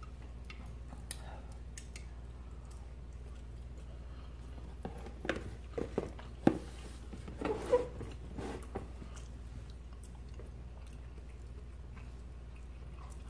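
Close-up chewing and biting of two people eating baked fish, potatoes and broccoli, with light clicks of forks on plates, busiest in the middle. A low steady hum lies underneath.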